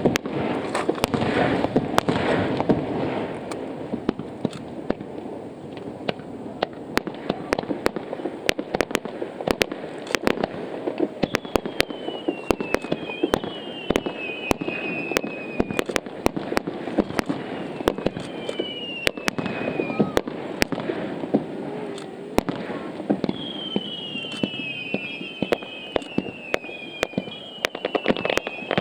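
Fireworks display: a dense run of sharp bangs and crackles from bursting shells, with no let-up. Groups of short whistles falling in pitch come in about midway and again near the end.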